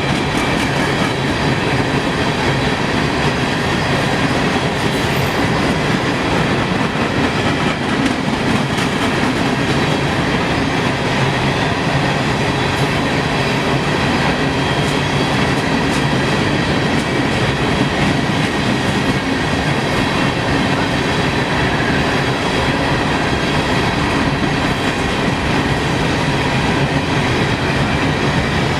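A train's cars rolling past on the rails, a loud, steady, unbroken noise of wheels on track.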